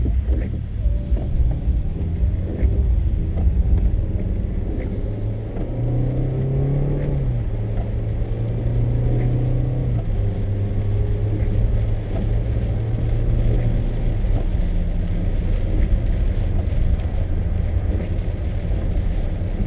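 A car's engine and tyres running on a rain-wet road, heard inside the cabin as a steady low rumble. The engine's hum climbs in pitch about six seconds in, then holds level.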